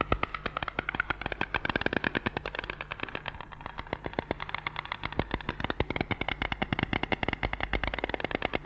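White stork clattering its bill: a fast, steady run of sharp clicks, about ten a second.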